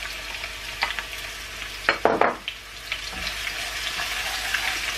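Sliced onions sizzling in hot oil in a nonstick wok as curry leaves are spooned in and stirred, with a steady frying hiss. A few sharp crackles and clacks come about two seconds in.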